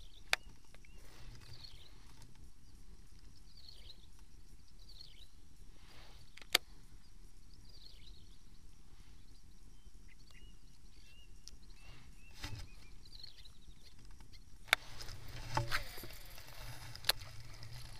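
Quiet open swamp ambience with a bird calling again and again in short falling whistles, and a few sharp clicks. Near the end come rustling and knocks as the angler's chest camera and fishing gear are moved about.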